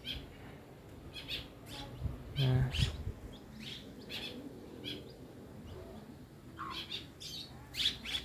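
Small loreng birds chirping, short sharp calls repeated irregularly. A brief low voice-like sound cuts in about two and a half seconds in.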